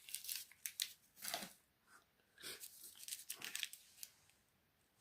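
Rustling and crinkling of model trees and foliage pieces being handled and moved about, in several short bursts with brief pauses between them.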